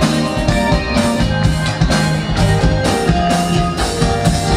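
Live pop-rock band of electric guitar, bass guitar, keyboards and drum kit playing an instrumental passage with a steady beat between sung verses.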